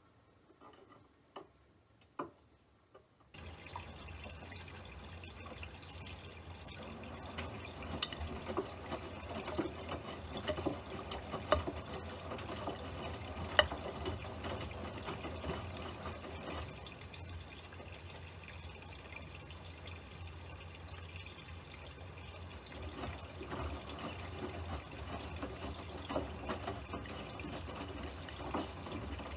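Running water with scattered sharp clicks, starting suddenly about three seconds in after near silence.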